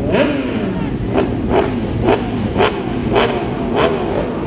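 Superbike engines running and revving on the starting grid, their pitch rising and falling, with regular thuds about two a second from someone running while carrying the microphone.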